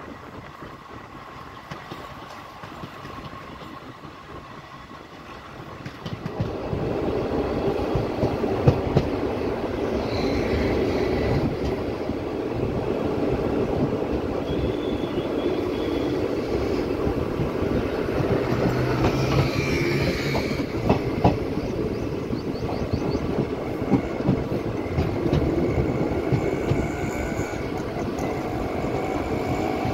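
Local passenger train running on the rails, its wheels rumbling and clattering over the track. The noise grows much louder about six seconds in and stays loud.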